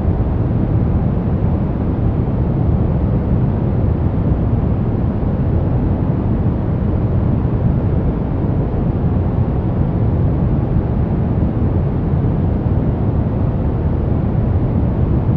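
Continuous synthetic noise sold as white noise for sleep, steady and unchanging, deep and rumbling rather than hissy, with most of its weight in the low end, closer to brown noise.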